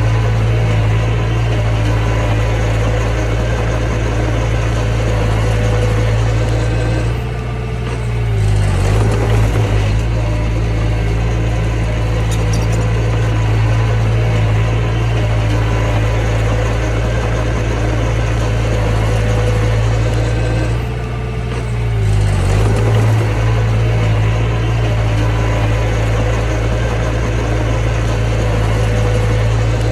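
Mini bulldozer's diesel engine running steadily under work. Twice, about eight seconds in and again about twenty-two seconds in, the engine note dips and then picks up again.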